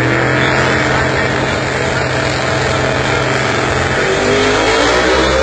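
Loud drag race car engine running with a steady, deep tone that shifts in pitch about four seconds in.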